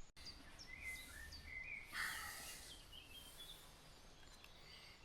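Faint birds calling in woodland: scattered short chirps, with a brief soft hiss of noise about two seconds in.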